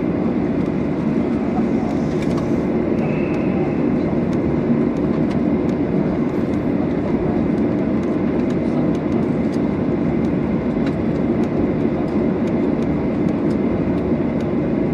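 Boeing 737-800 cabin noise: a steady rumble of the CFM56 engines and airflow heard from inside the passenger cabin, holding at an even level.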